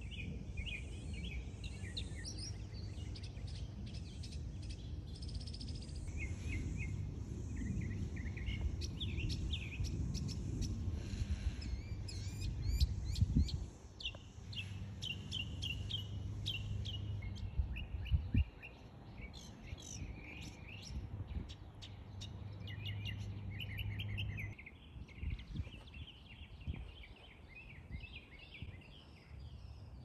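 Several small birds chirping and twittering in quick series of high notes, over a steady low rumble. Two dull thumps, the loudest sounds here, come about thirteen and eighteen seconds in.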